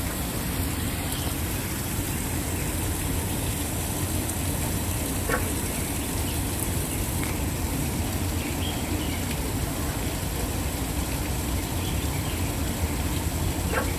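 Waterfall pouring steadily: an unbroken rush of falling water, heaviest in the low rumble. A few faint short high sounds stand out briefly through it.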